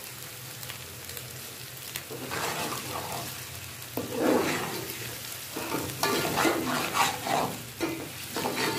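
Chopped onion, garlic and ginger sizzling in hot oil in a metal pot. From about two seconds in, a metal ladle stirs the frying onions, scraping against the pot in irregular strokes.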